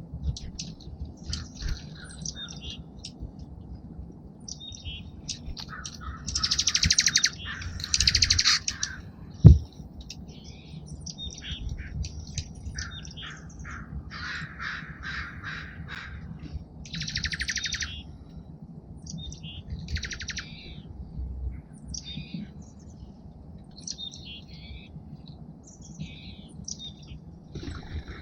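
Small songbirds at a feeder chirping and calling back and forth, with several loud bursts of rapid trilled chatter. A single sharp knock sounds about nine and a half seconds in.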